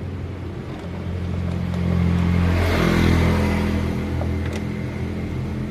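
A motor vehicle engine running, growing louder to a peak about three seconds in and then fading again.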